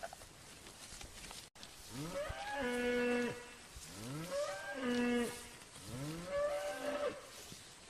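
Domestic cow mooing: three long moos in a row, each rising in pitch, holding, then dropping away.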